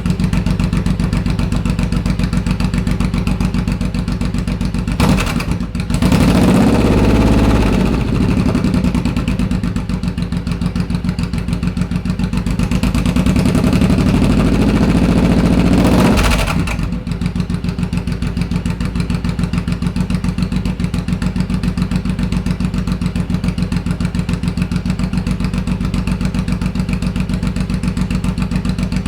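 2008 Suzuki C109R V-twin motorcycle engine running through its exhaust at idle. It is blipped about five seconds in, revved up briefly just after, and held at raised revs for about four seconds in the middle before dropping back to idle.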